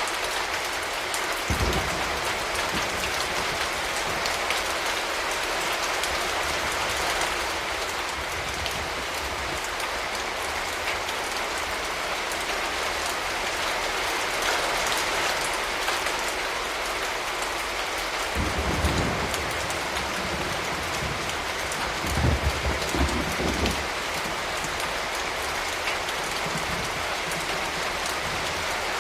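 Steady rain falling, with short low rumbles of distant thunder near the start and twice more about two-thirds of the way through.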